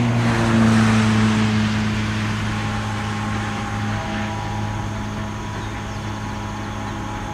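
ALCo RSD16-hauled freight train of grain hopper cars rolling away, steel wheels running on the rails under a steady low diesel drone. The drone dips slightly in pitch just after the start, and the whole sound slowly fades as the train recedes.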